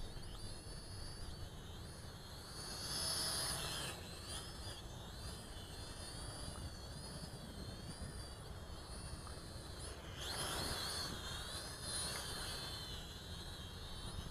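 Small toy quadcopter's electric motors and propellers whining at a high pitch, the tones wavering up and down as the throttle changes during manoeuvres. The whine swells louder about three seconds in and again about ten seconds in.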